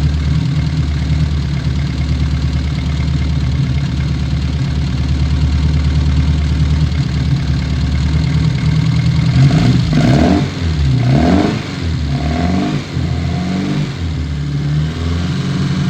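Classic Austin Mini Cooper's four-cylinder engine idling steadily, then revved up and down a few times about ten seconds in before settling back to idle. It has just been got running after a no-start and is being tuned at the distributor and carburettor.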